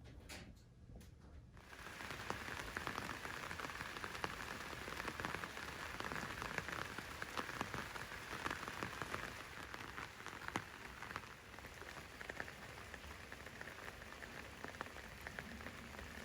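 Rain pattering steadily on a surface, a dense hiss of fine drop hits that comes in about two seconds in.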